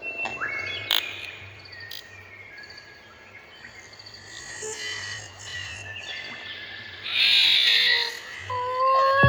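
Pet parrot making scattered croaking and whistling calls, with a loud harsh squawk about seven seconds in.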